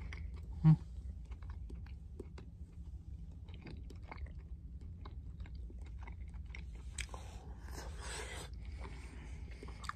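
Close-up mouth sounds of a person chewing soft stewed fish: small wet clicks and smacks scattered throughout, over a steady low rumble. A short, loud low sound comes just under a second in.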